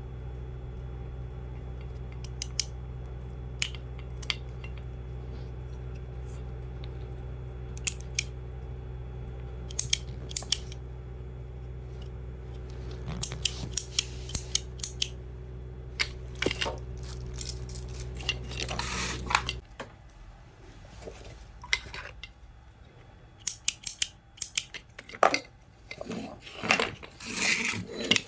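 Small metal parts and tools clicking and clattering as they are handled, over a steady low mechanical hum that cuts off abruptly about two-thirds of the way through; the clattering grows busier near the end.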